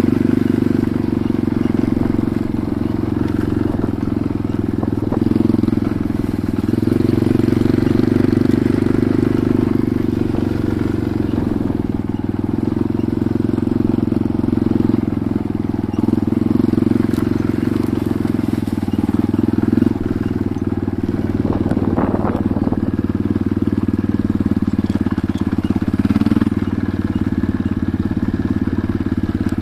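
Enduro motorcycle engine running steadily under way, its pitch rising and easing a little with the throttle, with a few brief knocks about two-thirds of the way through.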